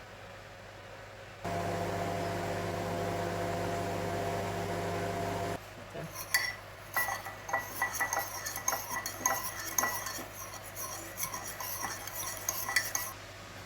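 A steady electric hum for about four seconds, then a metal spoon clinking rapidly and irregularly against a ceramic mug as mug-cake batter is stirred.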